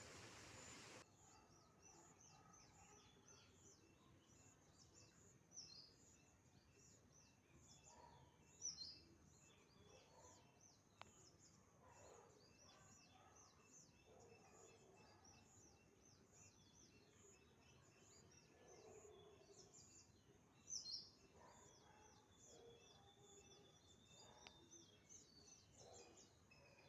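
Faint chorus of songbirds chirping all through, with a few louder calls standing out and one held high note near the end.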